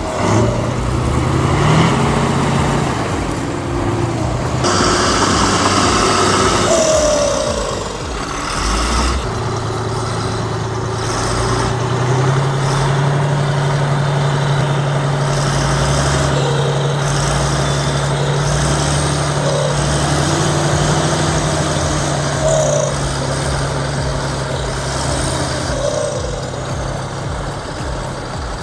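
Heavy vehicle's engine running steadily, its note rising a step about twelve seconds in and holding there.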